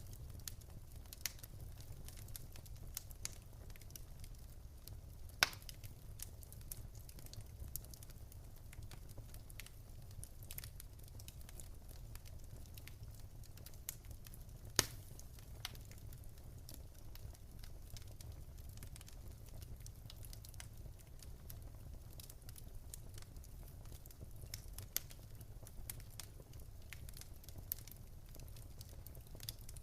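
Fireplace wood fire crackling, with many small scattered snaps over a low steady rumble. Two louder single pops come about five seconds in and about fifteen seconds in.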